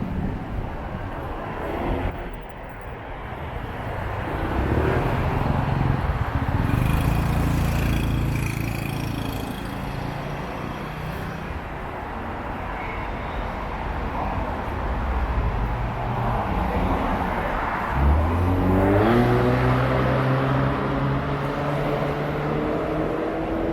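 Road traffic: the engines of passing vehicles run steadily. About eighteen seconds in, one vehicle pulls away with its engine pitch rising.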